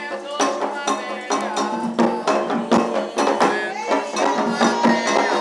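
Candomblé ritual music: drums and struck percussion keep up a fast, steady rhythm under chanted singing.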